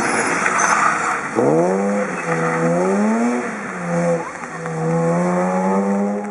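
Rally car accelerating hard: after about a second of rushing noise, the engine's note climbs steeply, then rises and drops several times as it changes up through the gears.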